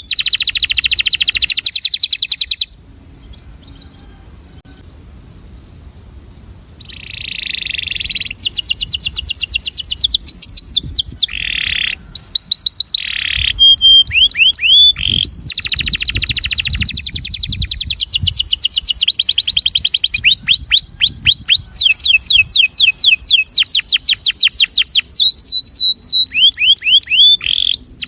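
Male domestic canary singing: fast trills of rapidly repeated sweeping notes. The song breaks off about three seconds in, resumes a few seconds later and runs on in rolling trills.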